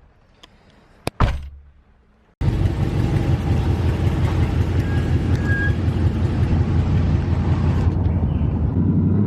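Pickup truck engine running loud with a dense, rapid rumble, starting abruptly about two and a half seconds in after a near-quiet stretch broken by a sharp click about a second in.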